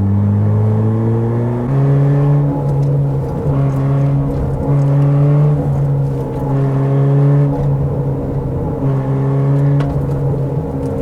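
A car's engine running on a winding mountain road, its pitch creeping up and then stepping higher about two seconds in, then holding fairly steady with short dips about once a second.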